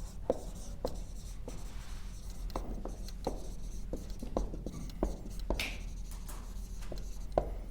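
Handwriting: a run of short taps and scratches of a writing tip on a writing surface, about two a second, over a steady low hum.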